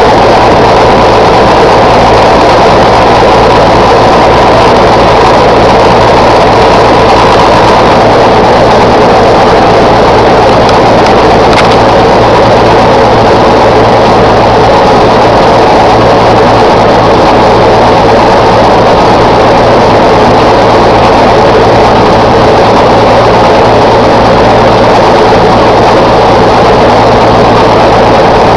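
Washing machine on its spin cycle, the drum turning at speed with a loud, steady noise from its blown drum bearings.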